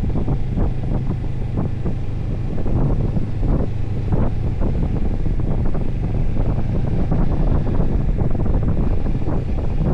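Motorcycle running at a steady speed, its engine a constant low drone under heavy wind buffeting on the microphone.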